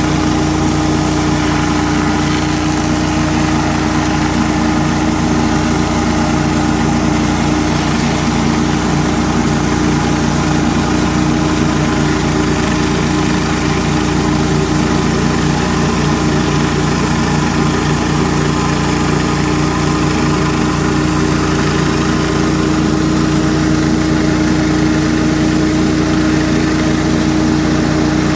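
Pressure washer's gas engine running steadily at a constant speed, with a continuous hiss over it.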